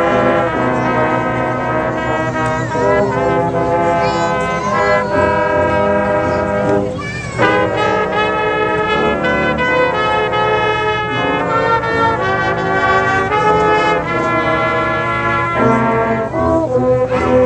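Community band's brass section playing a tune live, held notes from trombones and trumpets changing every second or so.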